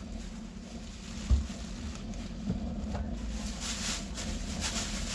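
Handling of packaging and paper while unpacking a boxed bench drill: a dull knock about a second in, then brief rustling twice near the end, over a steady low hum.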